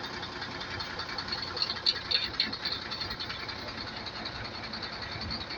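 Truck engine running steadily, with a few faint clicks about two seconds in.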